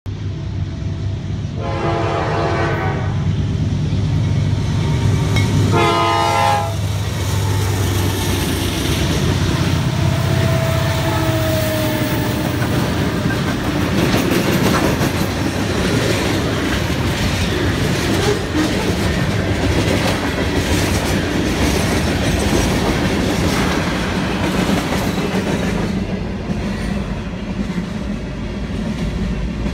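Norfolk Southern diesel freight locomotives passing a grade crossing: the lead unit's air horn sounds two blasts a few seconds apart as a crossing warning, over the low drone of several diesel engines. Then comes the steady rumble and clickety-clack of freight cars rolling by.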